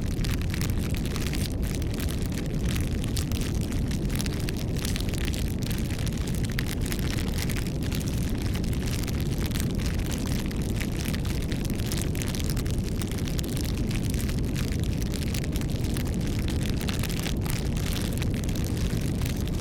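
Wood fire (bonfire) burning: a steady low rumble with frequent irregular crackles and pops.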